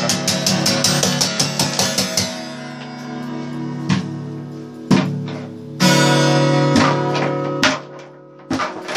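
Guitar being played: quick, even strumming for about the first two seconds, then single chords struck about once a second and left to ring.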